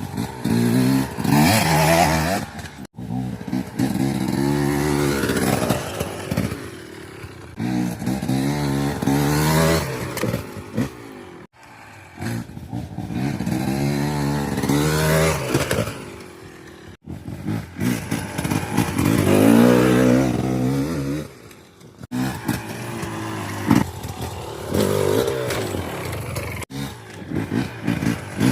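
KTM 250 EXC TBI two-stroke single-cylinder enduro engine, revved up and backed off again and again, its pitch rising and falling every few seconds. The sound breaks off abruptly several times.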